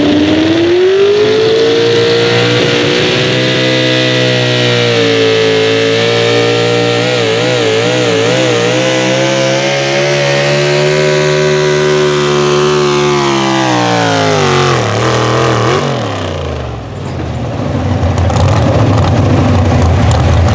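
Pulling tractor's engine run at full throttle: the revs climb over the first two seconds, hold high with a brief wavering about a third of the way through, then fall away over about three seconds near the end. A steady noisy rush follows the fall.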